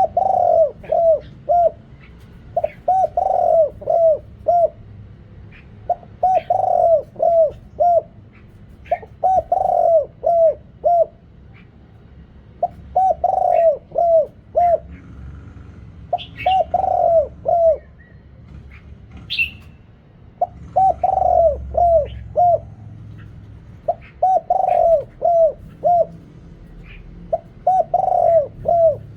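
A deep-voiced spotted dove cooing its territorial song, one phrase every three to four seconds. Each phrase is a few coos, longer at the start and shorter towards the end. Faint chirps from other birds sound between the phrases.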